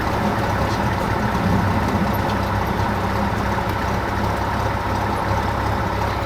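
Cessna 172 Skyhawk's piston engine and propeller running steadily, heard from inside the cabin.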